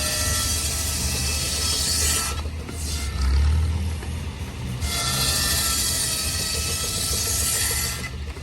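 Steam-show machinery running with a steady low rumble, with two long hissing bursts of about three seconds each over it.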